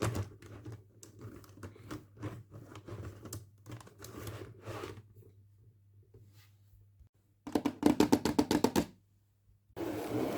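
Hands handling a toy and its plastic packaging: scattered small taps and clicks, then a quick run of loud clicks, about eight a second for a second and a half. A rustle starts near the end.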